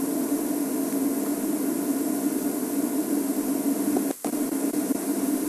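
Steady hiss with a low hum, briefly cutting out about four seconds in.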